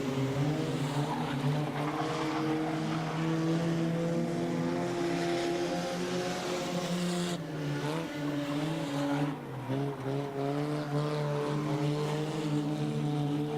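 Engines of several junk race cars running around the oval at speed, their pitches overlapping. About seven to nine seconds in the pitches bend down and back up as cars pass or back off and accelerate.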